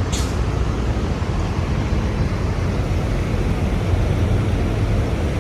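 Steady low rumble of idling diesel truck engines, with a brief high hiss right at the start.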